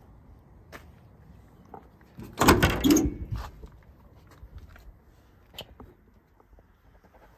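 Scattered light knocks and clicks, with one loud clattering bang lasting about a second, about two and a half seconds in.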